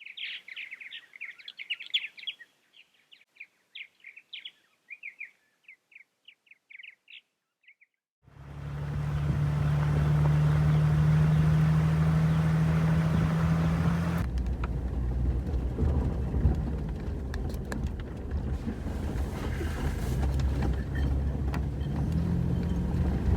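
Songbird chirping in quick series of short high notes for about eight seconds, then a vehicle driving on a gravel road: a steady engine hum with tyre and road noise, its engine note changing partway through.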